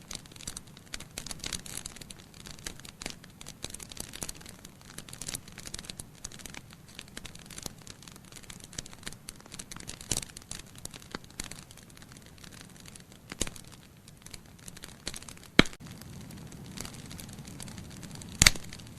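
Wood logs burning in a fireplace: a steady run of small crackles with now and then a sharp pop, the two loudest pops in the last few seconds.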